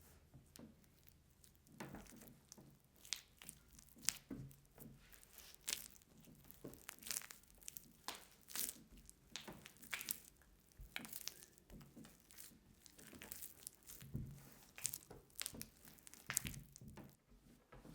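Irregular crinkling and rustling with light ticks, like crinkly material such as paper or wrapping being handled and torn.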